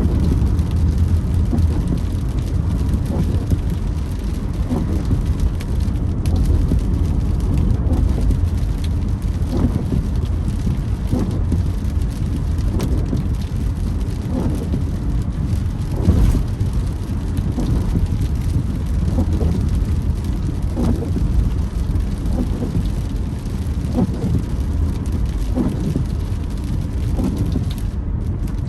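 Car driving in rain: a steady road and engine rumble with rain on the car, while the windshield wipers creak across the glass about once every second and a half.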